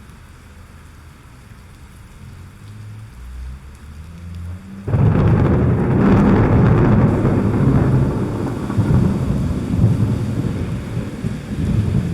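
Thunderstorm: low thunder rumbling and building, then a loud thunderclap about five seconds in that keeps rolling and rumbling, with rain falling throughout.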